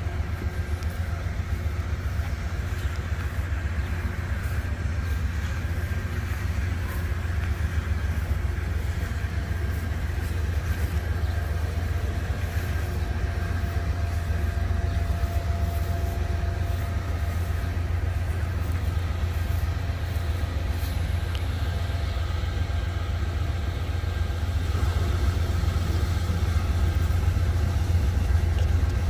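Norfolk Southern freight train running with a steady deep drone and faint level tones above it, growing a little louder near the end.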